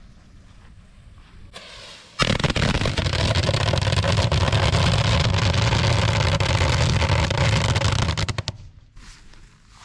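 A 1,000-count strip of firecrackers going off in a rapid, unbroken string of bangs for about six seconds, starting about two seconds in after a brief hiss and cutting off with a few last pops.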